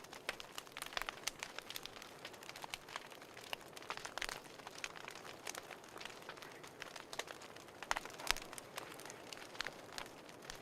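Fireplace crackling, with many irregular sharp pops over a soft steady hiss.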